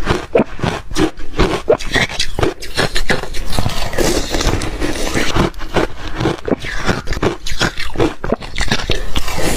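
Ice being crunched and chewed close to the microphone: a rapid, irregular run of loud cracks and crunches, several a second.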